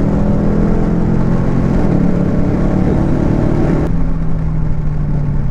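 2021 Dodge Charger Scat Pack's 6.4-litre V8 accelerating, heard from inside the cabin: the engine note climbs steadily. About four seconds in, the higher part of the sound drops away suddenly and it settles to a steady lower drone.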